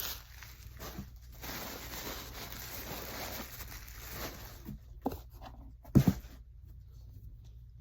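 Packaging rustling and crinkling as items are handled, followed by two short knocks about five and six seconds in, the second the louder, a thump.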